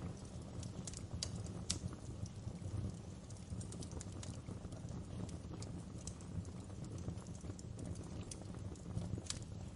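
Wood fire burning in a fireplace: a steady low rumble with irregular sharp crackles and pops, a few louder snaps scattered through.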